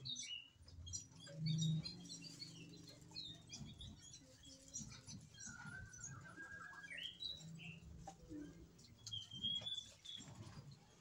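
Faint birdsong: many short, high chirps with a few longer whistled notes, over a low steady hum.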